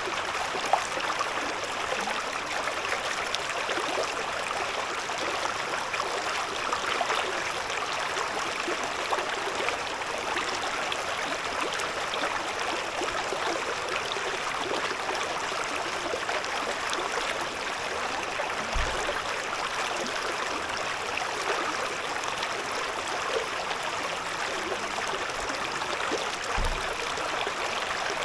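Shallow river babbling and gurgling steadily over stones, with two brief low thuds about two-thirds of the way in and near the end.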